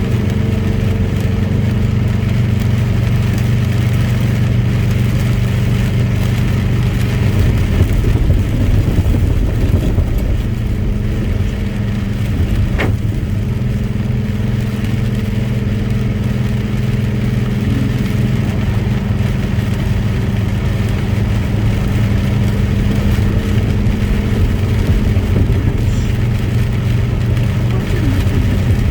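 Truck engine running steadily under way, its tone shifting for a few seconds about a quarter of the way in. A single short click comes near the middle.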